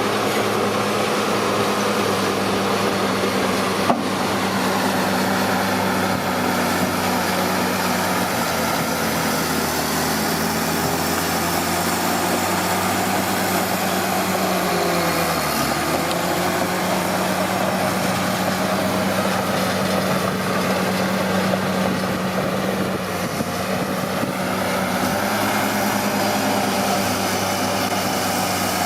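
Komatsu D41P bulldozer's diesel engine running steadily while pushing soil. Its pitch sags briefly about halfway through and then recovers, with a single sharp knock about four seconds in.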